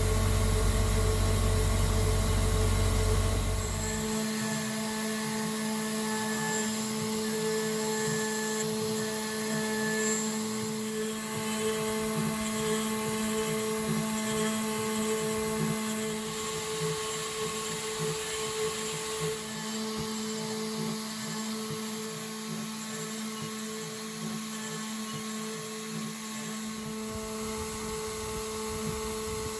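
High-speed spindle of a home-made CNC router whining steadily as a small end mill takes a light finishing pass across 6082 aluminium. A deep low hum under it stops abruptly about four seconds in.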